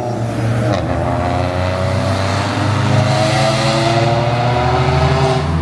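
A car's engine accelerating, its pitch rising steadily over several seconds, then dropping near the end.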